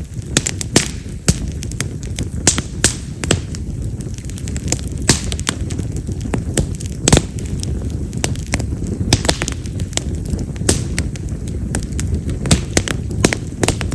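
Split wild cherry (yamazakura) firewood burning in an open fire, crackling with many sharp, irregular pops over a steady low rumble of flame. The loud, firecracker-like popping is typical of this wood.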